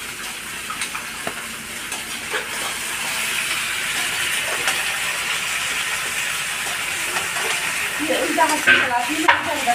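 Onions sizzling as they fry in a cooking pot, louder from about three seconds in, with a few light clicks of stirring. A voice comes in near the end.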